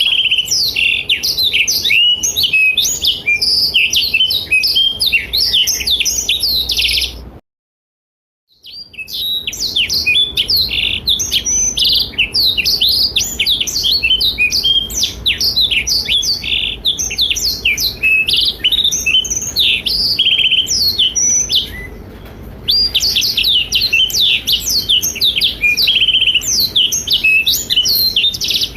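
Blackthroat (black-throated canary) singing a long, rapid, twittering song of fast high notes, stopping for about a second of silence near a third of the way in and pausing briefly again later.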